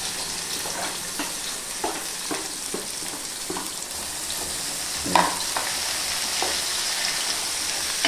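Onions and whole spices sizzling in hot oil in a pan, stirred with a spatula that taps and scrapes the pan every second or so, with a louder scrape about five seconds in.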